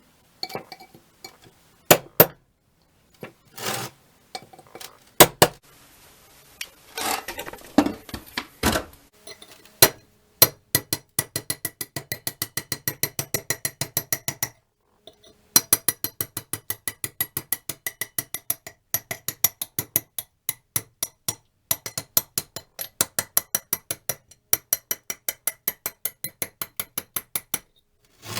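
Rapid runs of sharp metallic clinks, about four or five a second, each ringing briefly, as metal strikes metal while the rusty monkey wrench is worked on. A stretch of rougher scraping comes about a quarter of the way in, and the runs break off briefly a few times.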